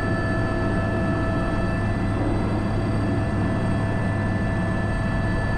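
Airbus H125 helicopter running steadily in a hover while lifting a sling load, heard from the cockpit: a constant turbine whine with several high tones over a low drone.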